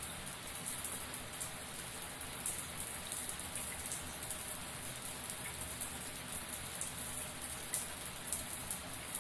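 Shower water running steadily, a continuous spray of drops pattering onto a hard surface, with a dense crackle of splashes up top.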